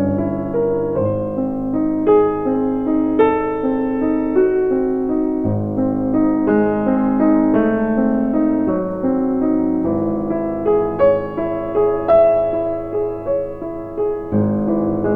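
Background music: a piano playing a gentle melody over chords, with notes struck every fraction of a second.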